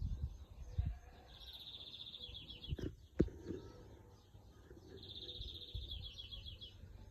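A small songbird singing a rapid trill twice, each about a second and a half long, with two sharp knocks between the trills.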